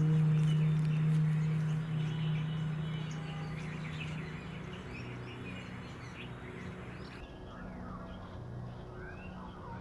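Many short, high bird chirps and twitters over steady outdoor background noise. A sustained low note from background music fades out during the first few seconds.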